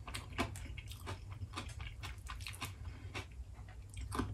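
Mouth sounds of someone chewing food, mixed with small irregular clicks and scrapes of a metal spoon in a bowl.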